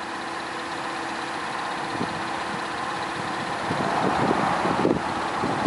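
A car engine idling steadily, with a rushing noise that grows louder in the second half.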